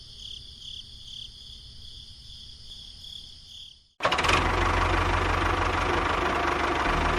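A small motor running with a steady hum: faint and whining at first, then much louder from about four seconds in after an abrupt cut.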